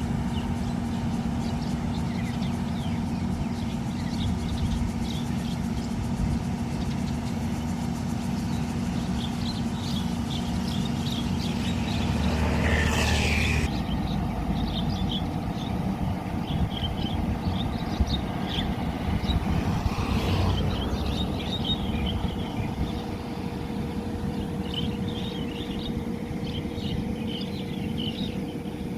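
Many short bird chirps scattered over a steady low rumble and hum, with one louder call about twelve seconds in.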